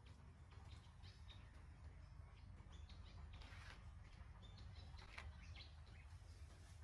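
Faint, scattered high-pitched chirping calls over a low steady hum.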